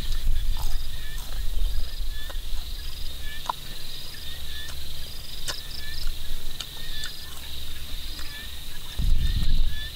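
Crisp crunching and chewing of deep-fried giant water bugs, heard as scattered sharp clicks. Behind it runs a steady high insect drone with a short chirping call repeating about twice a second, and a low rumble that swells near the end.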